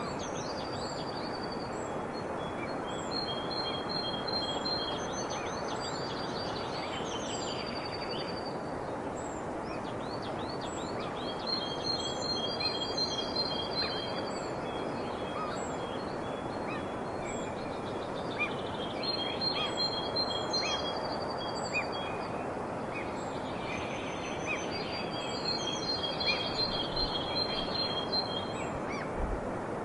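Songbirds singing in bouts of rapid trilled phrases, rows of quick repeated notes and downward-sweeping whistles, over a steady background hiss. The song comes in four spells, each a few seconds long.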